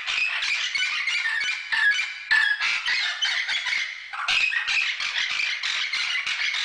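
Birds squawking in a dense, rapid chatter, with two brief breaks that sound like cuts between clips.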